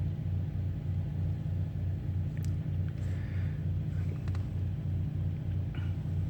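Diesel semi-truck engine idling: a steady low rumble with an even pulse several times a second.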